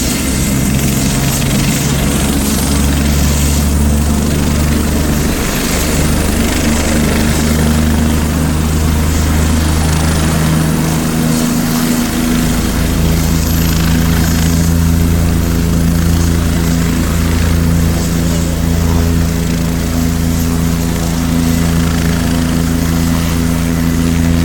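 Helicopter engine and rotor noise during flight: a loud, steady drone with a low hum that holds its pitch throughout.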